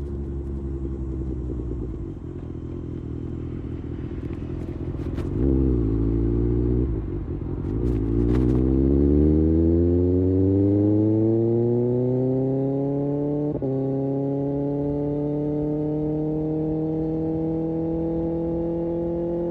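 Kawasaki Ninja ZX-6R inline-four engine and exhaust under way. The pitch wavers about five seconds in, then climbs steadily as the bike accelerates, with a short break about thirteen seconds in, and then holds high and steady.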